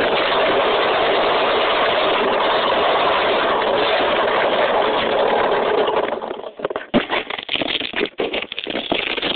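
Dirt bike engine running steadily. About six seconds in the sound breaks up into irregular knocks and rustling with short gaps.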